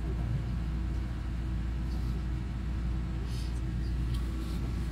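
Steady low rumble inside the passenger cabin of a TRA EMU3000 electric multiple unit train running along the track.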